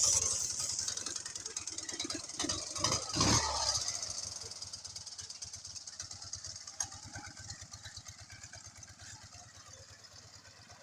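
Freshly overhauled Ural motorcycle's boxer-twin engine running with an even pulsing beat. It swells briefly about three seconds in, then grows steadily fainter.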